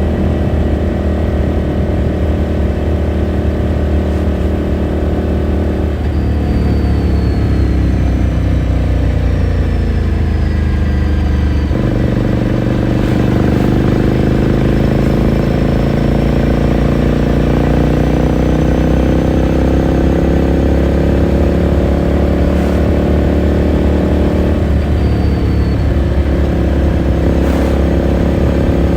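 2018 Ducati Scrambler Sixty2's air-cooled L-twin engine and exhaust heard onboard while riding: steady at first, then the pitch falls for several seconds as the bike slows. About twelve seconds in, the pitch jumps back up and then climbs slowly as the bike gathers speed.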